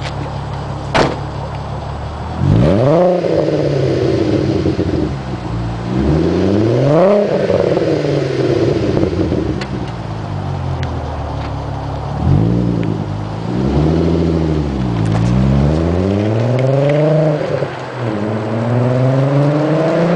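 VW GTI 24-valve VR6 engine through an Autotech/Magnaflow 2.5-inch exhaust, idling steadily and then revving up and down several times. A sharp click is heard about a second in.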